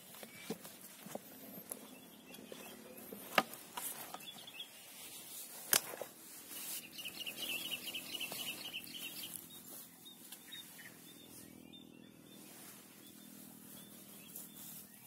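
Two sharp clicks of close handling, then a bird trilling rapidly for about three seconds, over faint field ambience.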